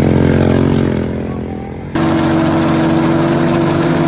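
Single-cylinder four-stroke engines of a two-engine, two-wheel-drive Alpha moped running. The sound fades a little, then cuts abruptly about two seconds in to a steady engine note.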